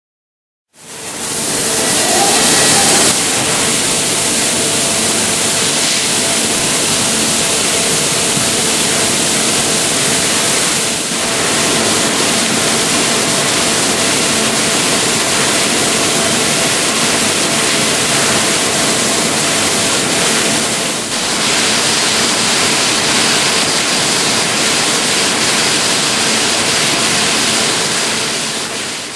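Makino T4 five-axis machining center rough-slotting Ti 6-4 titanium with an 80 mm cutter: a loud, steady rush of cutting noise with faint steady tones through it. It starts about a second in and dips briefly twice.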